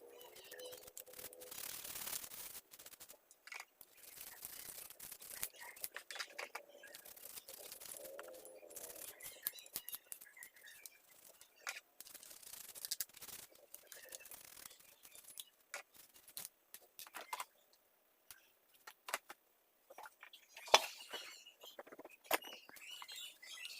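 Scattered clicks, knocks and scraping from handling and cleaning a small chainsaw's parts, with one sharper click a little past the 20-second mark.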